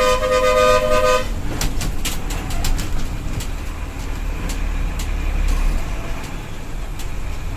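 A vehicle horn blares once for about a second, a held tone of several notes together, over the steady low rumble of the bus running; a few sharp clicks or rattles follow shortly after.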